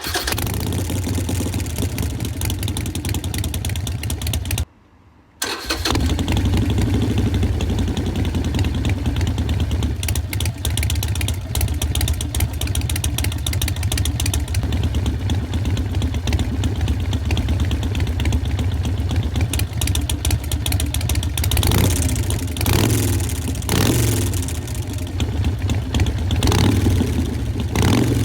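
Harley-Davidson Sportster Forty-Eight's air-cooled 1200 cc V-twin running through Vance & Hines Short Shots exhaust. It idles with a deep, lumpy rumble, drops out for under a second about five seconds in and resumes, then is revved in several short blips over the last seven seconds.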